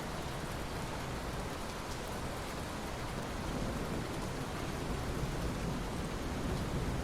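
Steady heavy rain, a dense even hiss of falling drops, with its low rumble swelling slightly in the second half.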